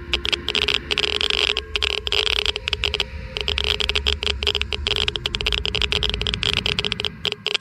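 Geiger counter clicking rapidly and irregularly, a dense crackle of counts, over a low rumble that cuts off near the end.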